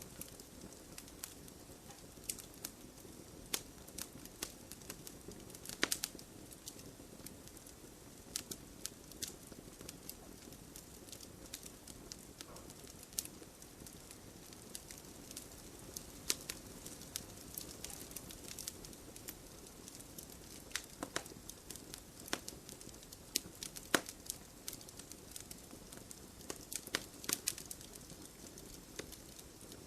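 Wood fire crackling, with irregular sharp pops and snaps over a low steady hiss; the loudest pops come about six seconds in and again near the end.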